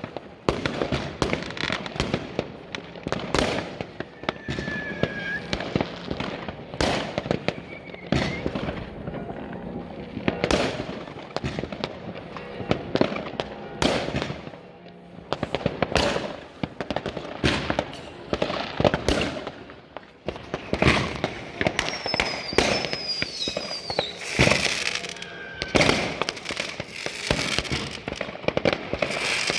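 New Year's Eve fireworks going off all around: rockets and firecrackers give repeated sharp bangs and crackling at irregular intervals. A few short whistles falling in pitch come early on and again about two-thirds of the way through.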